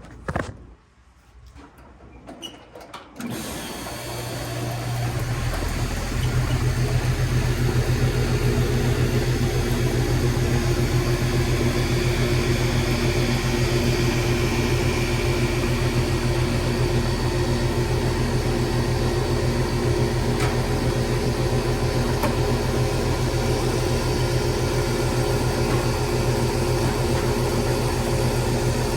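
Goodman 3-ton split-system condensing unit starting up about three seconds in and settling into a steady running hum, compressor and fan, run to pump the remaining refrigerant down before a leak in the aluminum coil is brazed.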